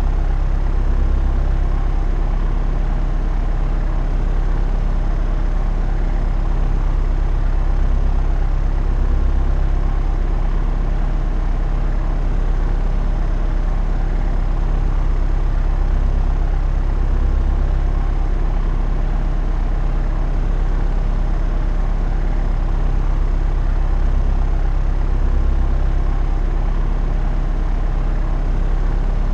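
Propeller aircraft in flight: a steady, low engine-and-propeller drone with a stack of even tones, slowly swelling and easing about every eight seconds.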